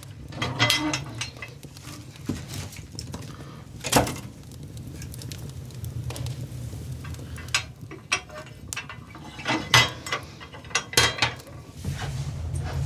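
Scattered sharp clicks and knocks, the clatter of hard objects being handled, over a steady low hum.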